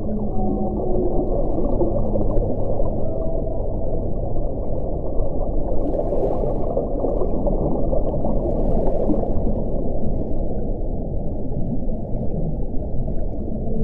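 Wind blowing as a steady low rush, with a faint moaning, howling tone in the first few seconds and brief airier gusts about six and nine seconds in.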